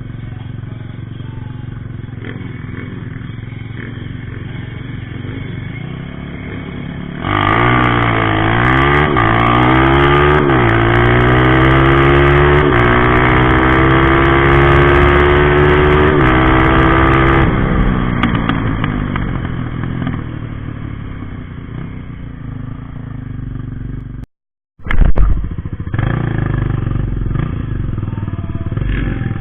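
A drag-race motorcycle launching hard and accelerating flat out, its engine pitch climbing and dropping back at several quick gear shifts before one long rising pull of about ten seconds, then fading away. Near the end, after a short gap, a loud rev and another motorcycle engine running.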